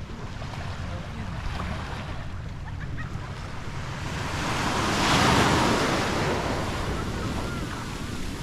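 Sea waves washing onto a beach, one wave building and breaking about five seconds in, with wind buffeting the microphone.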